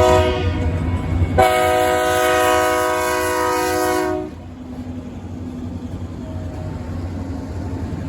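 Diesel locomotive air horn sounding a short blast, then a long blast of about three seconds, a chord of several steady notes, as a freight train approaches fast. After the horn stops, the train's steady low rumble carries on.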